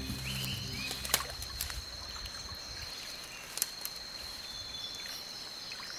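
Rainforest water ambience: a soft trickle and lap of water under a steady high-pitched insect drone, with a low hum that ends about a second in and a couple of light ticks.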